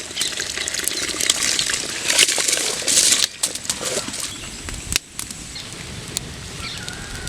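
Soaked rice being tipped into a pot of hot water, with splashing and the patter of wet grains. It is loudest in two rushes about two and three seconds in, then settles.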